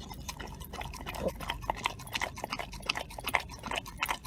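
Dog lapping and licking soft-serve ice cream from a small bowl: quick, irregular wet tongue clicks, several a second.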